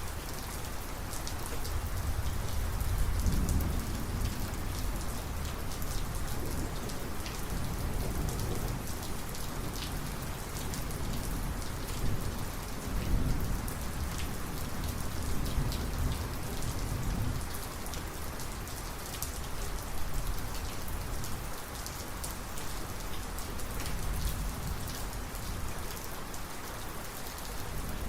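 Heavy thunderstorm rain pattering steadily on surfaces, with rolling thunder rumbling low and swelling several times, loudest a few seconds in and again around the middle.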